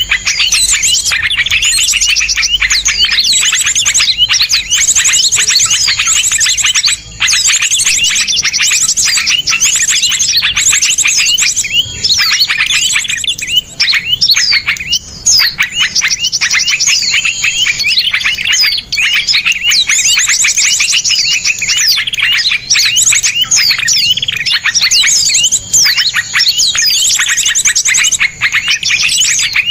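Many small songbirds chirping and trilling without a break: fast, sharp notes packed close together, overlapping one another.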